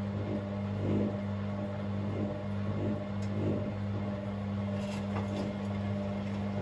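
Hoover DynamicNext front-loading washing machine running: a steady motor hum with a soft whoosh roughly once a second as the drum turns, and a few faint clicks or rattles about halfway through.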